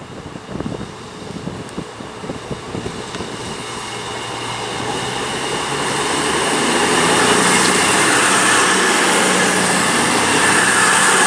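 CrossCountry Voyager diesel-electric multiple unit approaching and running past along the platform. Its engine and wheel noise grows steadily louder over the first several seconds to a loud, steady rush. Gusts of wind buffet the microphone in the first couple of seconds.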